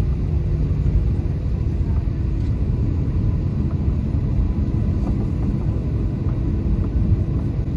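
Steady low rumble inside a Boeing 737-800's cabin on the ground before takeoff, with a faint steady hum over it.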